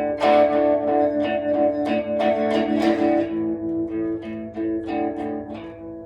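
Instrumental break in a rock song with no singing: a guitar strums chords in a steady rhythm of about three strokes a second.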